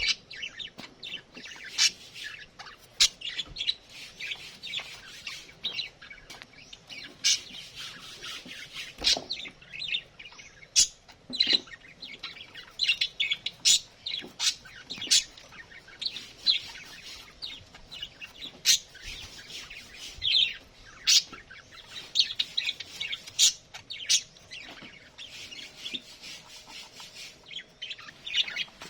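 A flock of budgerigars (budgies) chirping and chattering, with many quick, sharp high chirps throughout.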